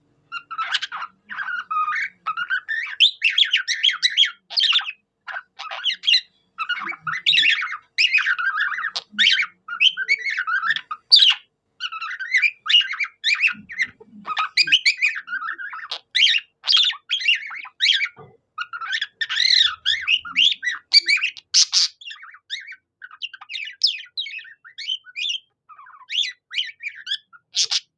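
Pet budgerigar singing a long, busy warble of chirps, squawks and short whistled glides, a budgie song that mimics a cockatiel's.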